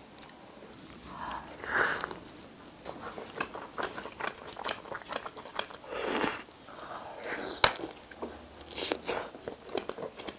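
Close-miked biting and chewing of a cheese-loaded pizza slice: a run of small crunchy clicks and crackles with a few louder bites. About seven and a half seconds in there is one sharp click, the loudest sound.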